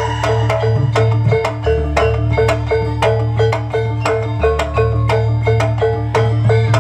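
Jaranan kuda lumping gamelan accompaniment: struck metallophones play a fast, even pulse over drums and a steady low tone.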